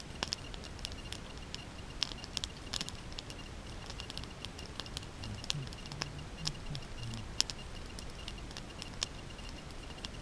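Small wood campfire burning low, crackling with irregular sharp pops and snaps. A faint steady high tone runs underneath.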